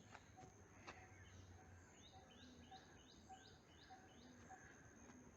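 Faint outdoor birdsong: about two seconds in, a bird repeats a short, quick high call about six times, roughly three a second, over a low background of other faint calls.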